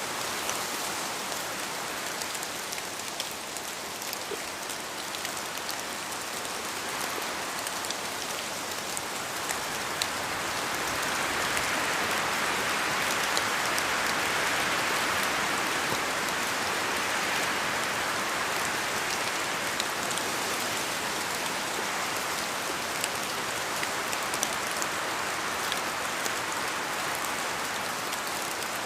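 Steady rain falling in a forest, with scattered single drops ticking. It grows louder about ten seconds in and eases off a little in the second half.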